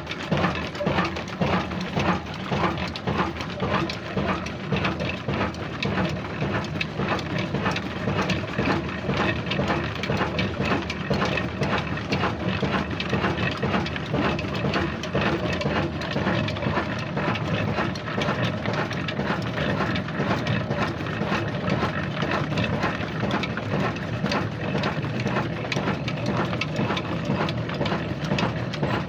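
A new diesel engine running steadily, with a fast, even mechanical clatter.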